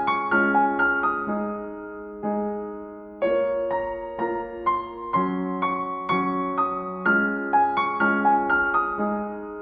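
Slow, gentle piano music: single notes and soft chords struck and left to ring and fade, with a few longer held chords.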